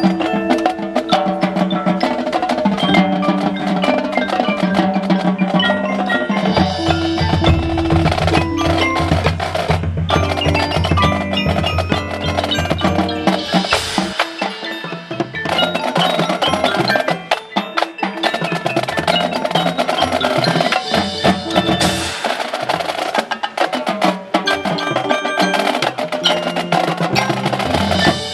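A high school marching band performing a percussion-heavy passage. Mallet keyboards such as bells and marimba ring over drums and woodblock-like clicks, with sustained low notes from about six to fourteen seconds in.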